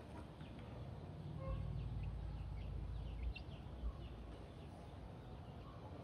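Quiet village-yard ambience: faint bird chirps over a low rumble that fades after about three seconds, with one soft thud near the four-second mark.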